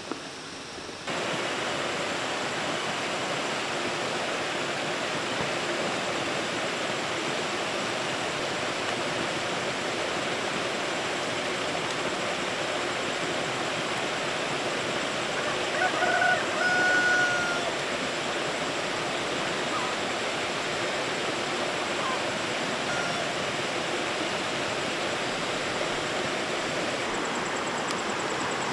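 Heavy rain falling in a steady, even hiss. A brief high-pitched call rises above it about halfway through.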